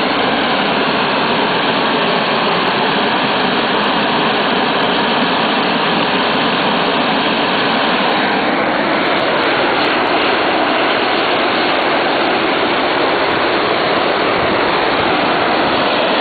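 Hand-held tezutsu hanabi, large bamboo-tube fireworks, spewing columns of sparks: a loud, steady rushing hiss that does not let up.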